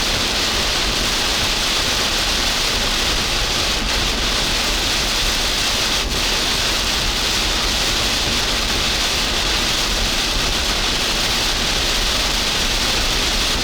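Heavy wind-driven rain from a tropical storm's outer band, a steady hiss with a low rumble underneath.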